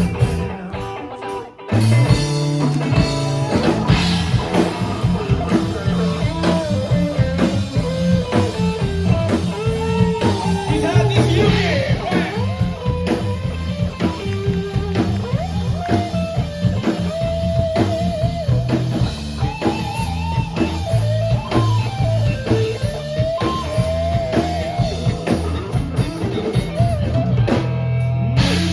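Live rock band playing guitar and drum kit with a singer; after a brief break, the full band comes in loud about two seconds in.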